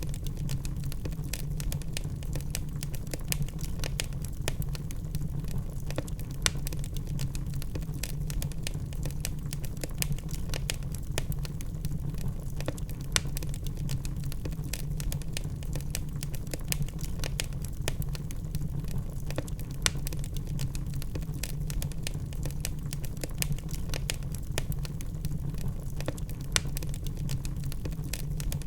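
Wood fire in a fireplace burning with a steady low rumble and constant small crackles, plus a few louder pops of the logs.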